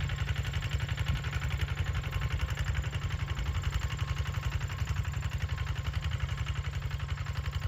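A small engine running steadily at idle, with a rapid, even throb.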